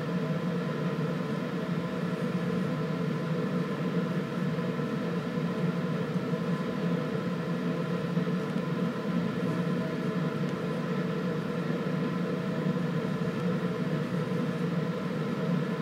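Steady machine hum with several steady tones.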